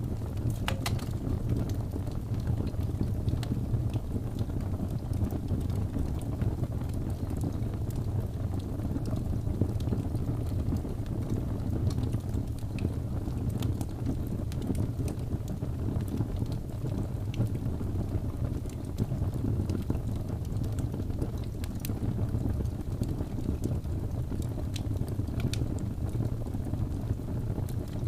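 Wood fire burning in a fireplace: a steady low rumble of flames with a few sharp crackles and pops scattered through it.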